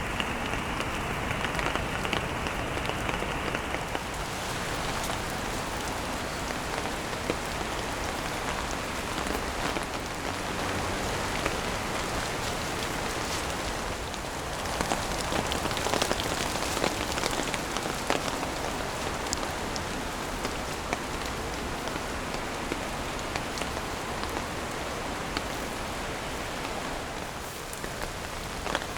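Steady heavy rain falling, with many individual drops pattering and ticking on surfaces. The sound changes slightly about four seconds in.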